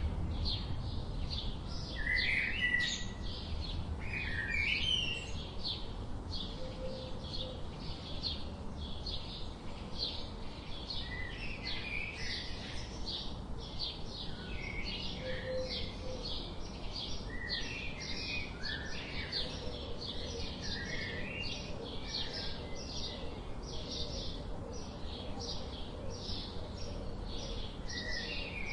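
Birds chirping: a steady run of short, high chirps, about two or three a second, with lower twittering notes among them.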